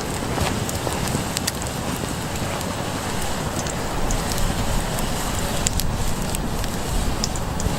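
Small campfire crackling: scattered sharp pops over a steady hiss, with a low rumble underneath.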